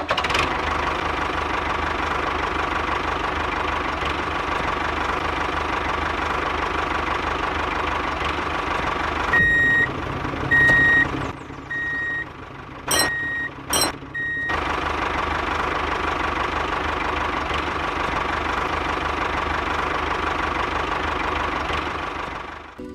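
Small motor of a miniature model vehicle running steadily with a constant whine. From about ten seconds in, for some five seconds, a reversing beeper sounds about six times in an even rhythm, with a couple of sharp clicks, before the motor noise resumes.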